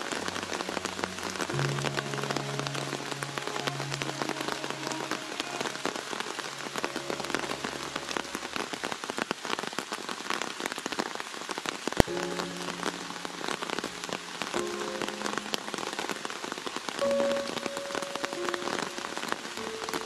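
Heavy rain falling steadily, a dense patter of drops on leaves and ground, with soft background music of held notes coming and going underneath. One sharp click stands out about twelve seconds in.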